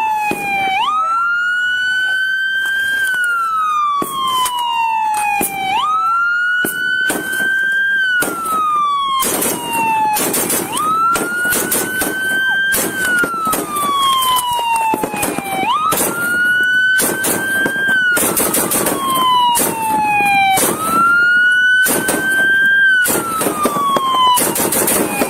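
Police car siren on a slow wail. Each cycle rises quickly, holds, then falls slowly, about every five seconds. Many sharp cracks or knocks come through it at irregular intervals.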